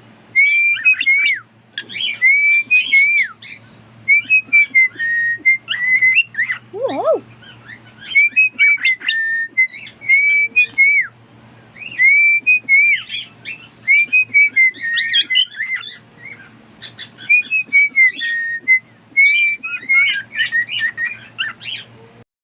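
Pet cockatiel whistling a learned tune: a long string of looping whistled phrases of rising and falling notes, broken by short chirps.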